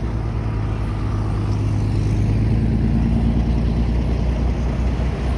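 A motor vehicle driving past on the road, its engine hum and road noise swelling gently and then easing off.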